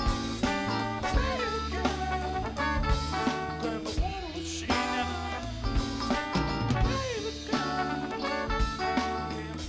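Funk band playing live, with drum kit keeping a steady beat, bass, and a horn section playing held and sliding notes.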